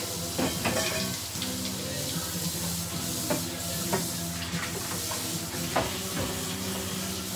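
Pork belly for lechon kawali sizzling as it fries in hot oil, an even hiss, with a few sharp knocks in between.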